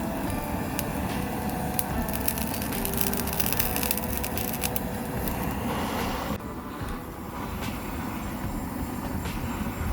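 Bonfire crackling, sharp pops coming thickly for the first several seconds and thinning out after about six seconds, over a low steady rumble.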